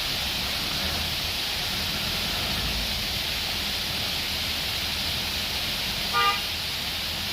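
Steady hiss of falling or rushing water, with one short vehicle horn toot about six seconds in.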